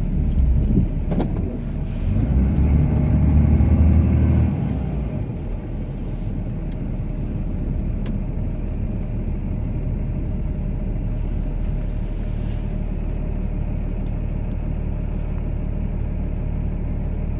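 Cummins diesel engine of a Ram pickup, heard from inside the cab while plowing snow, running steadily; about two seconds in it grows louder for a couple of seconds, as if working harder, then settles back to an even hum.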